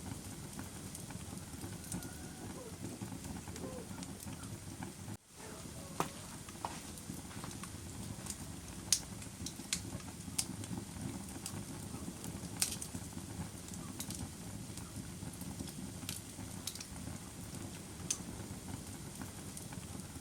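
A fire crackling: a steady low rush with scattered sharp pops, a few of them louder. The sound drops out for a split second about five seconds in.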